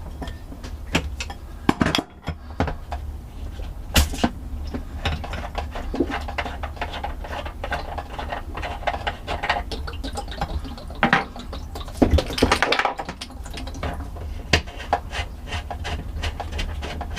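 Clicks and knocks of plumbing caps and fittings being handled and pulled off the water lines, with a few sharper knocks, over a steady low hum.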